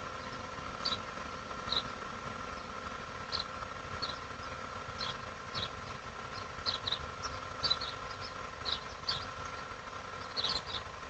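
Small birds chirping in short, scattered high calls over a steady background hum that holds a few faint constant tones.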